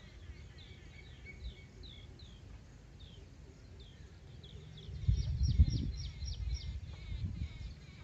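A bird calling with short, falling chirps, about two a second, and a quick run of sharp notes a little past the middle. A low rumble, the loudest sound, rises about five seconds in and returns briefly near the end.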